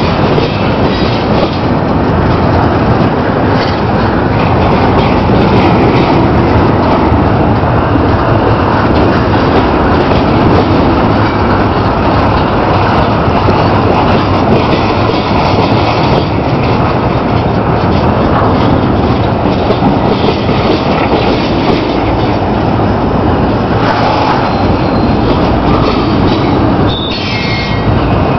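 Norfolk Southern freight train cars rolling past at close range: a loud, steady rumble and rattle of wheels on rail. A brief high wheel squeal comes near the end.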